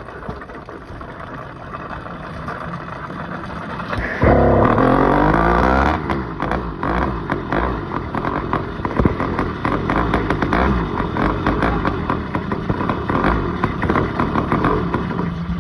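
Motorcycle engine running while being ridden. About four seconds in it gets suddenly louder for a couple of seconds, with its pitch swinging, then carries on unevenly with clattery road noise.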